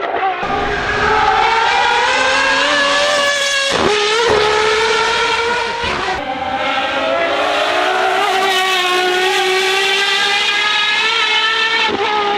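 Supercar engine accelerating hard, its pitch climbing through the revs. It breaks off briefly with quick upshifts about four and six seconds in, then pulls up again and eases slightly near the end.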